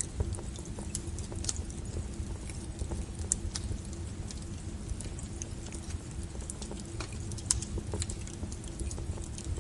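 Wood fire crackling: irregular sharp pops and snaps over a steady low rumble of burning logs, with a louder snap about three seconds in and another late in the stretch.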